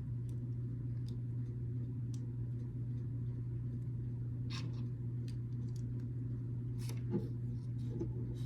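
A steady low hum, with a few faint clicks of small plastic building bricks being handled and fitted, the clearest about four and a half and seven seconds in.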